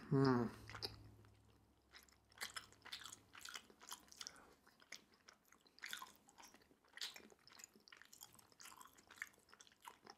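A person chewing soft, chewy Korean rice cakes (tteokbokki) in sauce, close to the microphone: quiet, wet mouth clicks, several a second. It opens with a short hummed voice sound.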